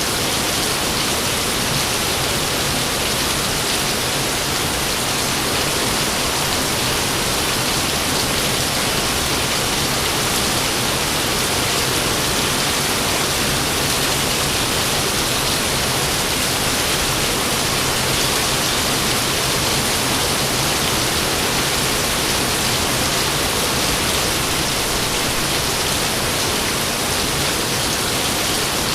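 Steady heavy rain, an even hiss of falling water with no thunder.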